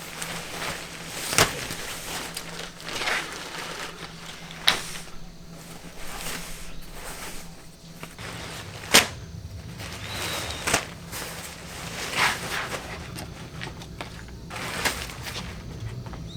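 Irregular handling noises: sharp clicks and knocks every few seconds, the loudest about nine seconds in, with brief rustling swishes in between.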